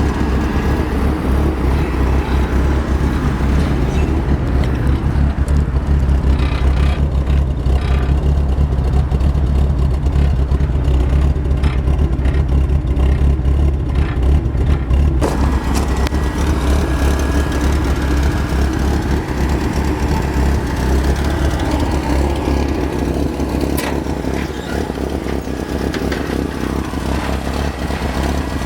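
Chevy 250 cubic-inch inline six running through its original cast-iron exhaust manifold, single pipe and Thrush muffler. It sounds steady and rough, and the engine has plenty of exhaust leaks that make it sound "crappy".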